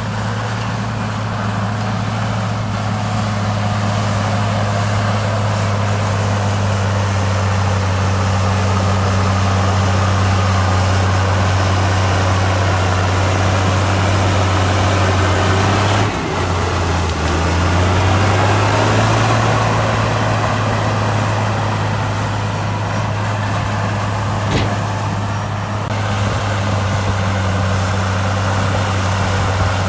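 Heavy diesel engine of an earthmoving machine running steadily under load. About halfway through, the engine speed dips suddenly and then climbs back up.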